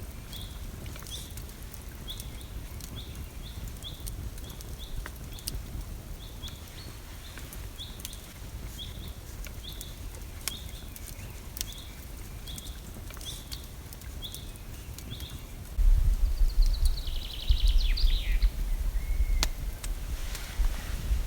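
A bird gives a short, high call over and over, about once or twice a second, among scattered sharp clicks. About three quarters of the way through, wind starts buffeting the microphone and a bird sings a quick trill that falls in pitch.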